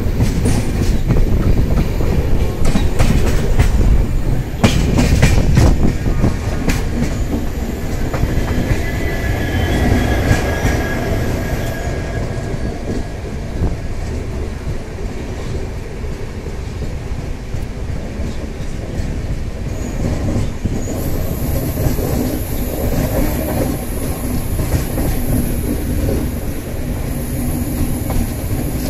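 Express passenger train running on the rails, heard from inside the moving coach: a steady rumble with clatter of the wheels over rail joints, busiest in the first several seconds and growing a little quieter after that.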